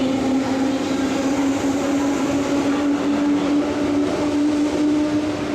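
JR 211 series electric train pulling out of a station: a steady motor whine rising slowly in pitch as it picks up speed, over the rumble of the train.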